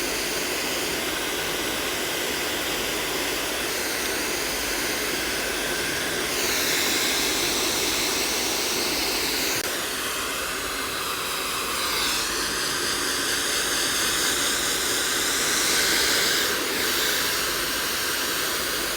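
Hand-held hair dryer blowing continuously, a steady rush of air with its motor whine, the tone shifting a little about six and again about twelve seconds in.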